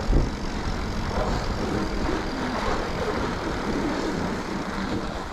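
Steady rumble of a mountain bike ride on a packed snow trail: wind on the microphone and the wide tyres rolling over snow, with a short knock just after the start.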